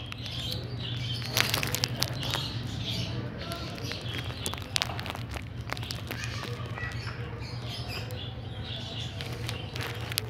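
Small birds chirping over a steady low hum, with a few sharp clicks.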